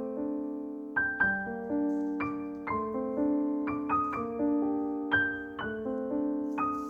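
Background music: a gentle, unhurried solo piano melody, its notes struck and left to ring.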